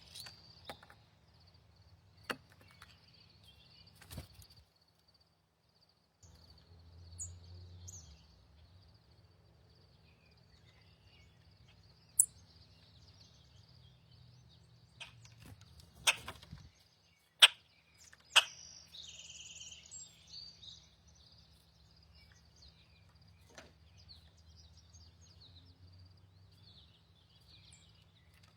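Outdoor bird ambience: a faint steady insect-like drone and low hum, with a few bird calls, one cluster around two-thirds of the way through. Several sharp clicks or taps stand out, the loudest a little past the middle.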